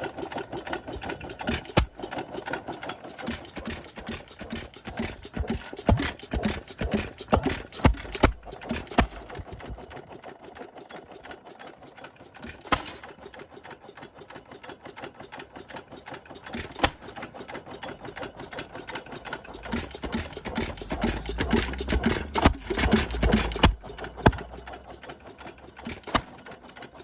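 Sta-Rite 1½ hp hit-and-miss stationary engine running: a fast, steady clatter between loud, sharp firing strokes that come at irregular intervals, the engine firing only now and then and coasting in between.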